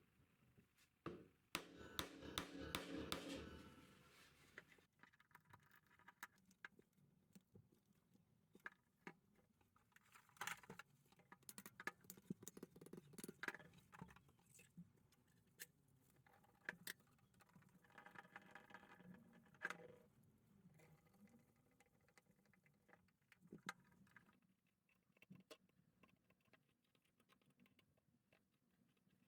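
Scattered light clicks, taps and small scrapes of angle grinder parts being handled, with a busier run of knocks in the first few seconds.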